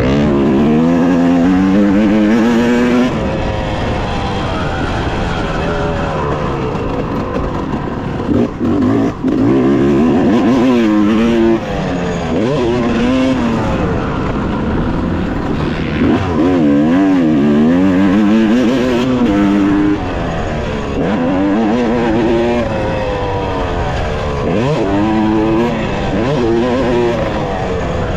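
Two-stroke 250 cc Yamaha YZ250X dirt bike engine revving hard and easing off over and over, its pitch climbing and dropping as it is ridden through the gears around a motocross track. The engine sound cuts out sharply for a moment a few times, around eight to nine seconds in and again near twelve seconds.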